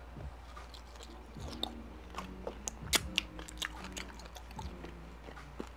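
Close-miked chewing of a bite of sauced steak: wet mouth clicks and smacks at an uneven pace, loudest about three seconds in.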